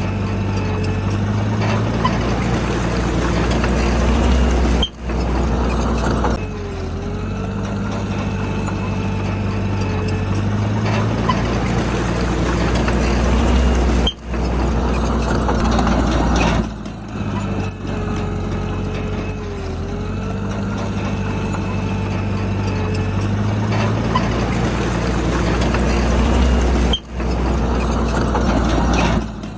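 Komatsu D31P bulldozer's diesel engine working, its pitch and load rising and falling in repeated cycles, with a few abrupt breaks in the sound.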